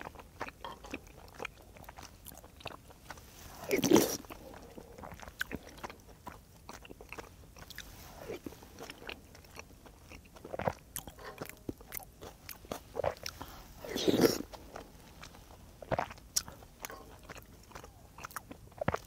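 Close-up mouth sounds of someone eating tteokbokki rice cakes and ramen noodles: chewing and biting with many small clicks, and two louder noisy moments about four and fourteen seconds in.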